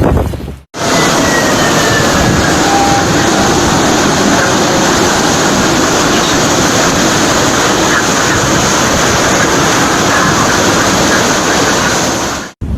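Typhoon wind and heavy rain: a loud, steady rushing noise that starts abruptly a moment in and cuts off abruptly near the end.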